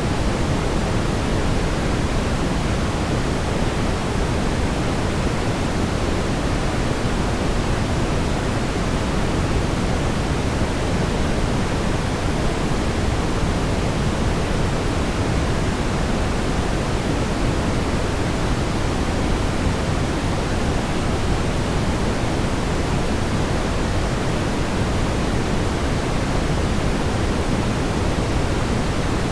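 Steady synthetic brown noise: a deep, even rumbling hiss, heaviest in the bass and fading toward the highs, with no change or events.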